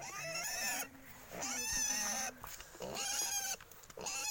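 A pig squealing in four long, high cries about a second apart, the last starting near the end, as it is held and operated on during castration.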